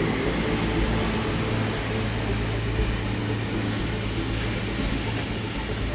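A train running with a steady low hum and rumble.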